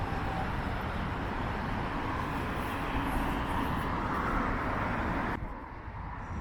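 Road traffic noise mixed with wind buffeting the microphone, a steady rushing haze with heavy low rumble. It drops sharply about five seconds in.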